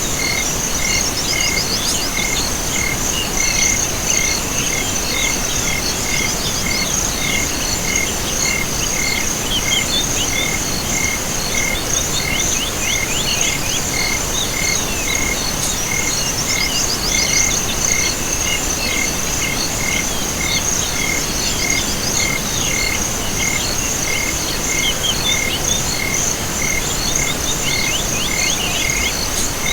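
Insects and frogs calling together in a steady chorus: a continuous high-pitched trill, a regular pulsing chirp about once or twice a second, and recurring bursts of quick falling frog calls.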